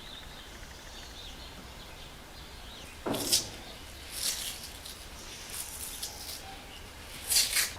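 A few short scrapes and rustles of tools and parts being handled during hand work on the car, over a low steady hiss.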